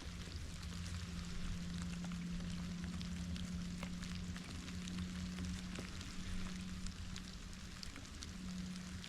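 Steady rain falling, an even hiss dotted with many small drop ticks, over a steady low hum.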